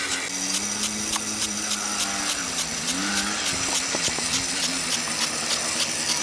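Dirt bike engine running on a motocross track, its pitch holding and then rising and falling with the throttle.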